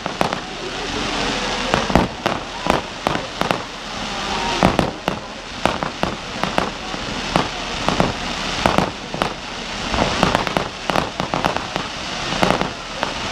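Fireworks going off: many sharp bangs and crackles in quick, irregular succession over a steady hiss.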